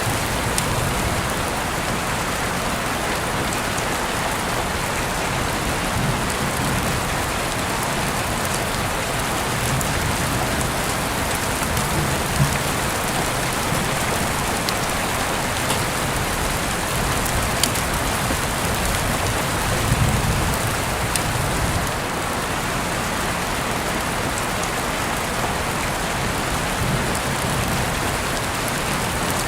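Heavy rain falling in a steady, dense hiss, with a few sharper ticks of single drops.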